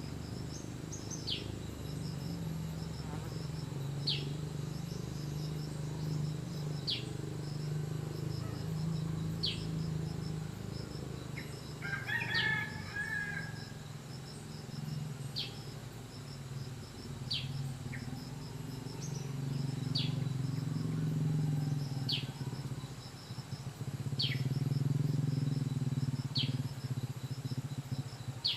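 A bird's single sharp, downward-sliding call repeated every two to three seconds, over a steady high buzzing of insects. About halfway through, a fuller, more complex call is heard once, and a low hum swells and fades.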